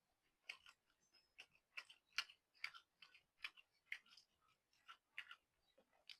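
Close-miked chewing of noodles and stewed beef: soft, irregular wet mouth clicks, a few a second.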